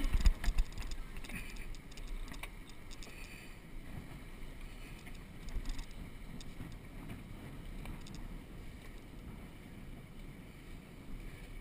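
Steady wash of water and wind aboard a small sailboat under way, with a few sharp knocks in the first second.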